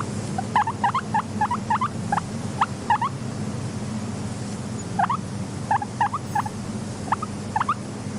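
Guinea pigs giving many short, rising squeaks in quick clusters, with a pause of about a second and a half midway, over a steady low hum.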